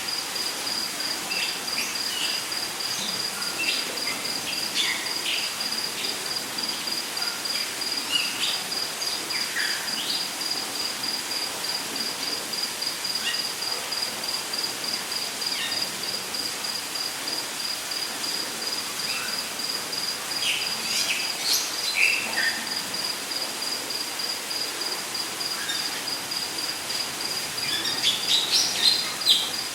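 Rainforest ambience: an insect trills steadily in rapid high-pitched pulses, with scattered short bird chirps and calls over a steady hiss, the calls coming thicker near the end.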